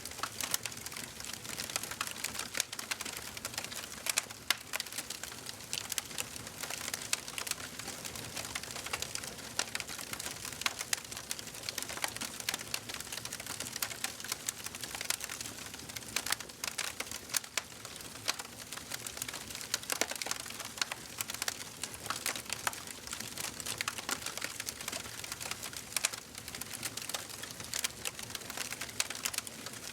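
Wood fire crackling in a fireplace: a dense, irregular stream of small pops and snaps over a steady hiss from the burning logs.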